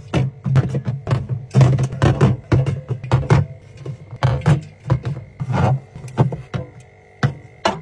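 Hard items such as containers and packaging being handled and set down: a quick, irregular run of clicks, taps and knocks, several a second.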